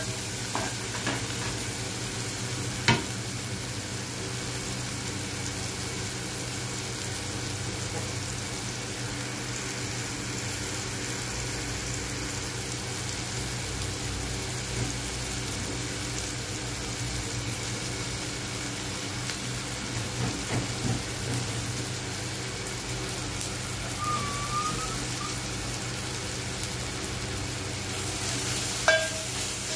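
Chopped onions and tomatoes sizzling steadily in hot oil in an aluminium pressure-cooker pan. A wooden spatula stirs them, giving occasional knocks against the pot: once about three seconds in, a few around two-thirds of the way through, and again near the end as chopped spinach is stirred in.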